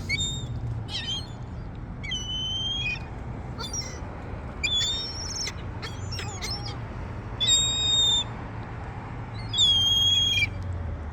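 Gulls calling: a series of about eight high, clear cries, several drawn out for most of a second, over a low steady hum.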